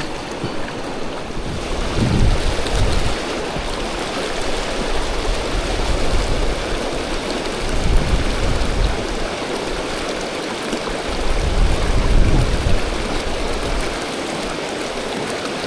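Fast river water rushing over rapids, a steady roar, with several low rumbling gusts of wind on the microphone.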